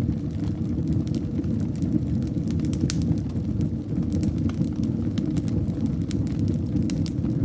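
Wood fire burning in a fireplace: a steady low rumble of flames with scattered sharp crackles and pops, several a second.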